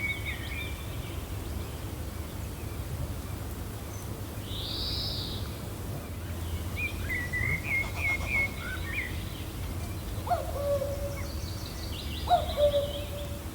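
Birds calling over a steady low wind rumble. A high arched call sounds about five seconds in, a quick run of chirps follows a couple of seconds later, and two lower calls that drop in pitch near the end are the loudest sounds.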